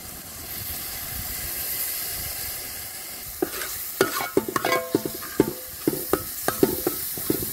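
Onion, garlic and ground spices sizzling in hot oil in a large metal pot as soy sauce is poured in. From about three seconds in, a long metal spoon stirs and scrapes the pot, giving repeated clinks and scrapes over the sizzle.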